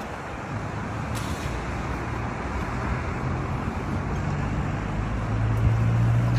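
Road traffic at an intersection: a steady wash of vehicle noise, with a low engine hum growing louder near the end as a vehicle idles or passes close by.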